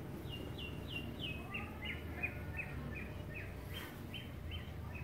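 A bird calling: a long run of short, downward-slurred notes, about three a second, over a steady low outdoor background noise.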